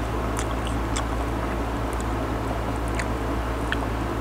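Chewing mango slices: scattered small crunches and wet mouth clicks over a steady low hum.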